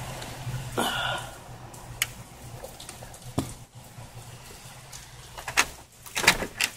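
Scattered sharp clicks and knocks over a steady low hum and a faint noisy background, with the loudest cluster of knocks near the end.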